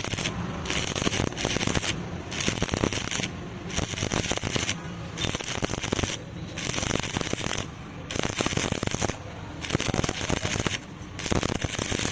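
Stick-welding arc crackling and sizzling on steel square tube. The arc is broken and restruck about every second and a half, with short gaps between runs.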